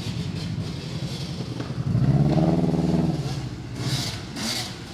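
Subaru Impreza engine droning under way, then revving up and falling back for about a second, about two seconds in. A brief hiss follows near the end.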